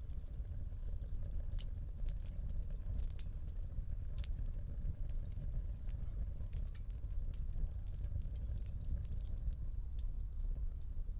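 Wood fire burning in a fireplace: dense, irregular crackling and popping over a steady low rumble of the flames.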